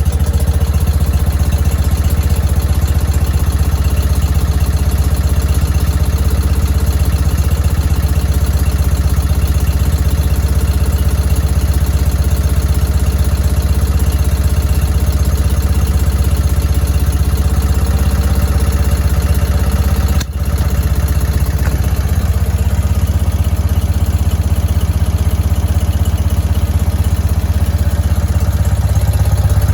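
1968 BMW R50/2's flat-twin boxer engine running steadily from a cold start, having just caught on the kick with its carburettors tickled and a dead battery, fired by the PowerDynamo magneto ignition. The level dips briefly about twenty seconds in.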